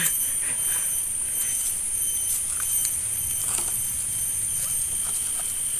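Outdoor background: a low wind rumble on the microphone under a steady high-pitched hum, with a few faint ticks.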